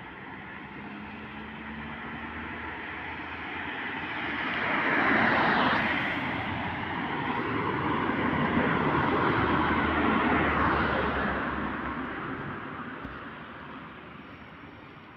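Passing traffic: the rushing noise of vehicles swells up, stays loud for several seconds, and fades away again.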